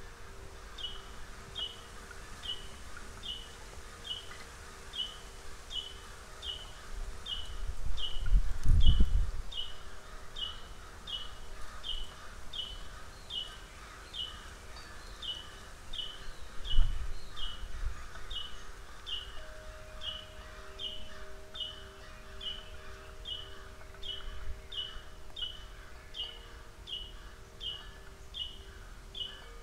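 A bird repeats a short, high chirp about one and a half times a second over a faint steady hum. A low rumble swells about eight seconds in, the loudest sound here, and a shorter low thump comes about seventeen seconds in.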